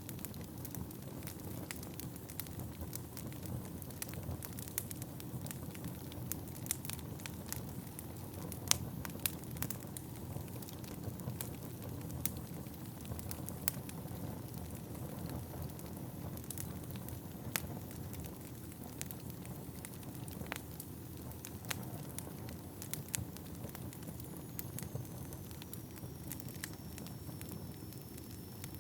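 Wood fire burning in an indoor fireplace: a steady low rumble of flames with irregular sharp crackles and pops from the burning logs, most frequent in the first half. A faint, thin, high whistle comes in near the end, sliding slightly down and then holding.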